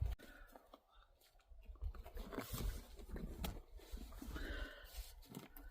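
Faint handling noises: soft rustling and a few light clicks as an umbrella hat is opened and put on.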